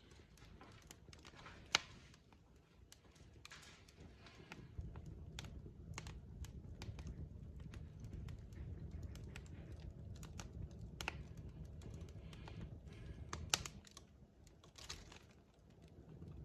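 Wood fire in a fireplace crackling: irregular sharp pops and snaps of burning logs over a steady low rumble of the flames, with a louder snap about two seconds in and another near the end.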